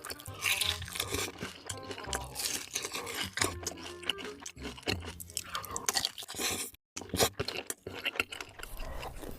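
Close-miked eating: crisp, rapid crunches and chewing of food. The sound cuts out completely for a moment about seven seconds in.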